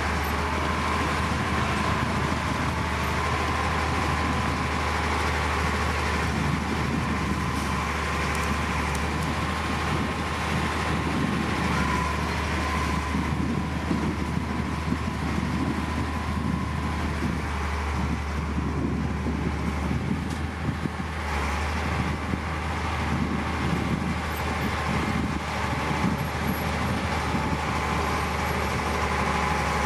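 Heavy diesel earthmoving machinery running steadily: a constant deep engine drone with rough mechanical noise over it and a thin steady whine in the first half.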